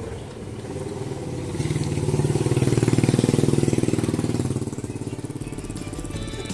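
An engine running with a fast, even beat. It grows louder about two seconds in and fades after about four seconds, as a vehicle passing by does.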